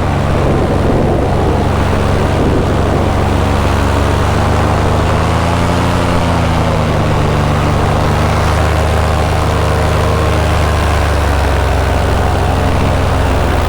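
Paramotor engine and propeller running steadily in flight, the pitch rising a little and settling back around the middle.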